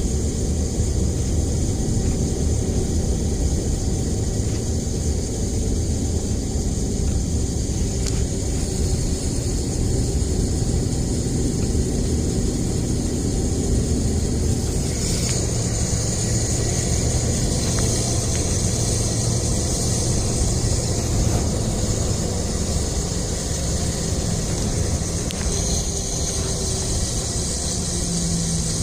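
2004 Ford F-150 driving, with steady road and drivetrain rumble and a hissing, static-like noise from the rear of the truck that grows louder about halfway through. The cause is unknown to the owner; the noise comes only while the truck is moving.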